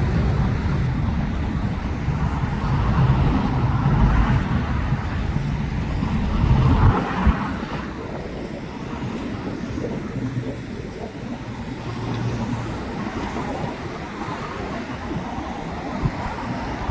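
Low rumble of a landed airliner's jet engines mixed with road traffic noise. It is heavy for the first seven seconds, then drops off suddenly and continues as a quieter, steady background.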